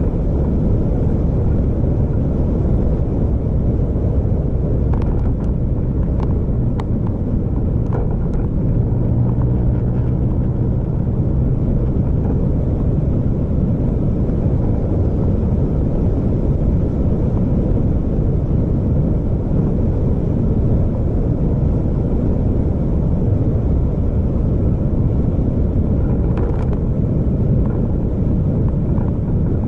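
Vehicle driving along a road: a steady low rumble of engine and road noise, with a few light clicks or rattles a few seconds in and again near the end.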